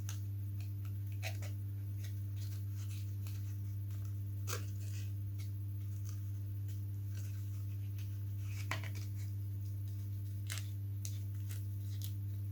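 Small model-kit parts being handled and fitted by hand: scattered faint clicks and light taps over a steady low hum.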